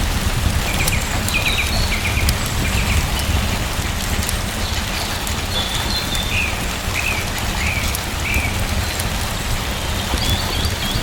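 Steady rain with a low rumble and scattered sharp ticks. A small bird chirps a few short calls in two runs, early and again in the middle.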